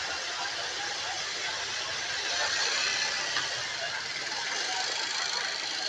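Steady outdoor hubbub of crowd voices mixed with running engines, with no music playing.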